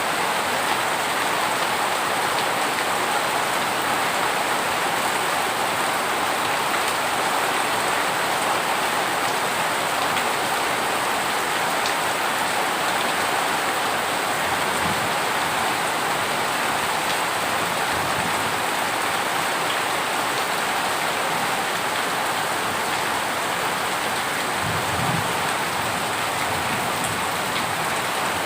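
Heavy rain falling steadily, an even hiss of drops on hard surfaces, with a few faint low rumbles partway through and near the end.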